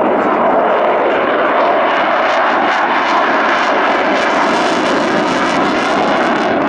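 An airplane's engine noise, a loud, steady roar that holds level throughout.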